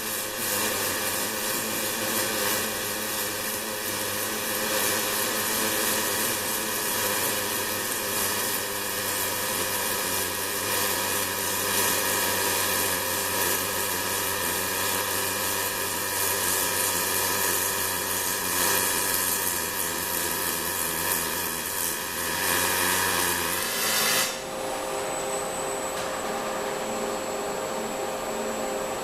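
Fronius CMT (cold metal transfer) welding arc on an ABB welding robot: a steady hiss with a buzz that cuts off suddenly about 24 seconds in. A steady machine hum with a thin high whine carries on after it.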